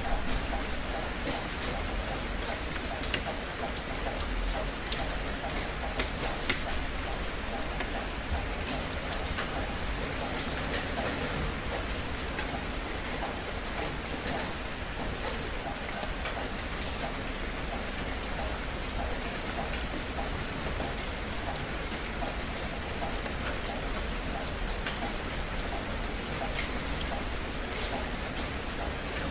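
Steady rain falling: a dense, even hiss with scattered individual drops striking close by, a few of them louder about three and six seconds in.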